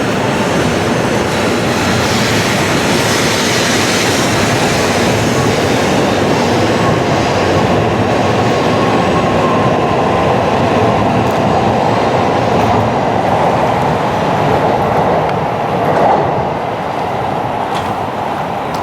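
Train running on the line, giving a steady noise. It swells briefly about sixteen seconds in and is a little quieter afterwards.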